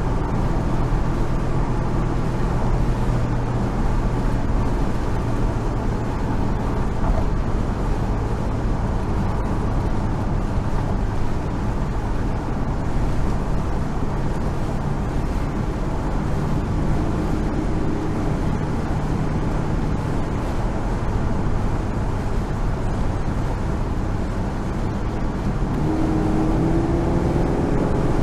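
1970 Chevrolet Monte Carlo's V8 running at steady freeway cruise, heard from inside the cabin with road and wind noise. Near the end the engine note rises and grows a little louder as the car picks up speed.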